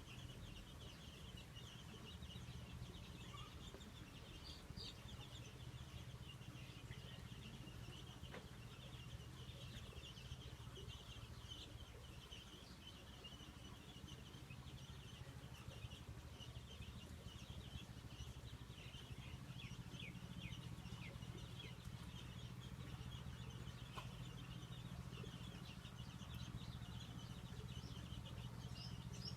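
Faint, continuous chorus of many short, overlapping chirps from small animals, over a steady low hum.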